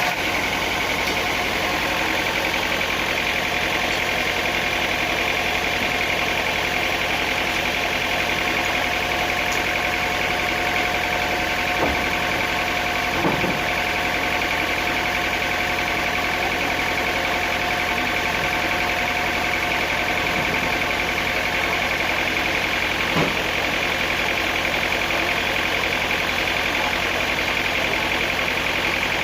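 Sawmill machinery running steadily with an engine-like drone and a steady whine, with a few short knocks.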